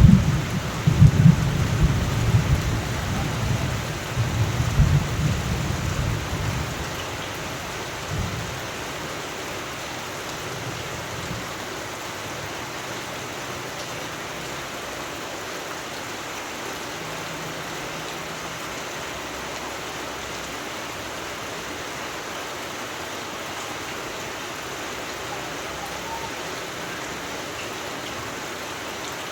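Thunder rumbling and dying away over the first seven seconds or so, over steady falling rain that carries on evenly afterwards.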